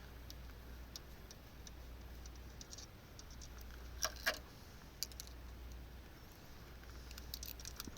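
Light clicks and taps from a temperature probe being handled and fitted into the water line, with two sharper clicks about four seconds in, over the low steady hum of the running heat pump system.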